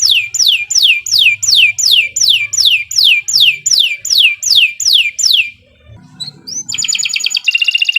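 Domestic canary singing: a fast run of identical down-slurred whistled notes, about four a second. After a short break near six seconds in, it switches to a rapid, dense trill.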